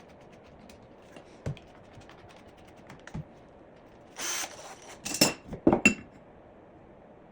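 Tools and wood being handled during assembly: scattered small clicks, a thud, a short rasping burst, then several sharp clanks in quick succession about five to six seconds in.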